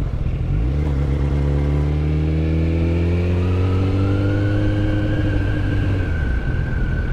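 Yamaha FZ1's inline-four engine running under steady throttle while riding, its pitch climbing slowly as the bike gathers speed, then easing off near the end.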